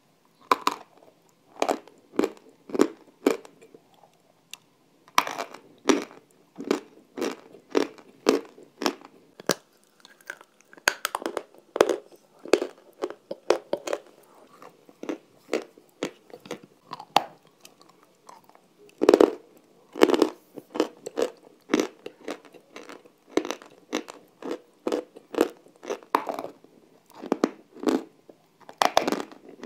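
Close-miked crunching and chewing of a hard, crumbly pale chunk bitten off by hand, in a steady run of crisp crunches about two a second with a couple of short pauses.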